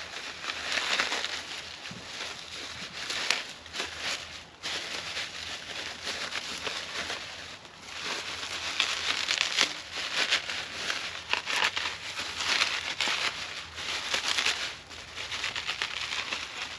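Packaging crinkling and rustling in uneven waves, with a few sharp clicks, as a motorcycle accessory is unwrapped from its bag and box.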